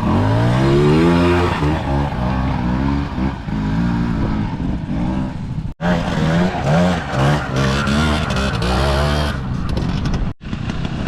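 Classic trials motorcycle engine revving up and down as the bike is ridden through an off-road section, the throttle opened and closed again and again with a rising surge near the start. The sound breaks off abruptly twice and picks up again.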